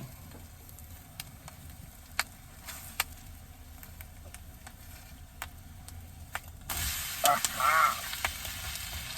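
Scattered light clicks of a utensil on a frying pan, then, about two-thirds of the way through, a sudden loud sizzle as the omelet is flipped onto the hot pan, and it keeps sizzling.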